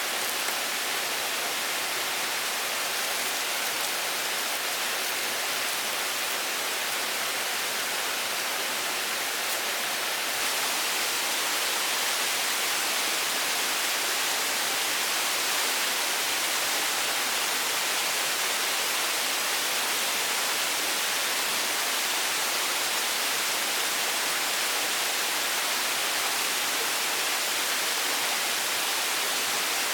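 Steady hiss of falling or running water, growing a little louder about ten seconds in.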